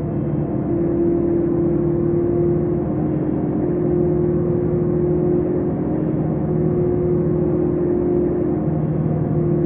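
Car engine running at a steady speed, a constant-pitched hum with road noise.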